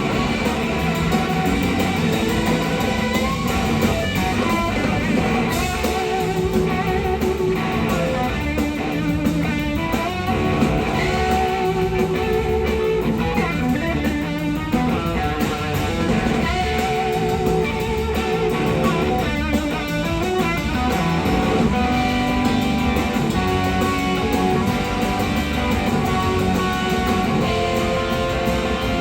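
Live electric slide guitar solo, with sustained notes that waver and glide in pitch, over the band's bass and drums.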